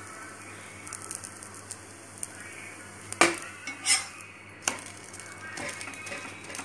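Egg-dipped bread frying in ghee on a flat iron griddle (tawa), a faint steady sizzle. A little past the middle a metal spatula scrapes and clanks against the griddle three times as the slice is turned over.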